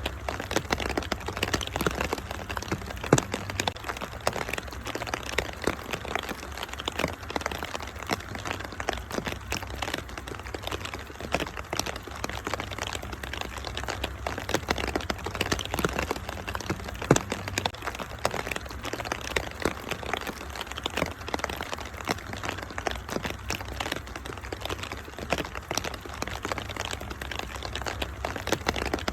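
Wood fire in a fireplace crackling and popping without pause over a steady rain hiss and low rumble, with a couple of sharper pops, one early on and one a little past the middle.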